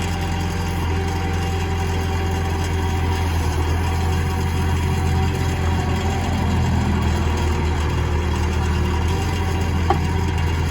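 Caterpillar 426 backhoe loader's diesel engine idling steadily, with one short click a little before the end.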